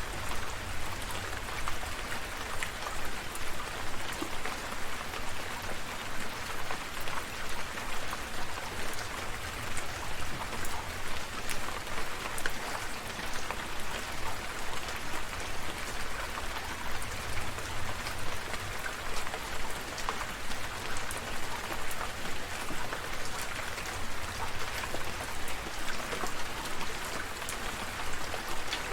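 Steady rain falling, with many individual drops striking close by as sharp little ticks over an even hiss of rainfall.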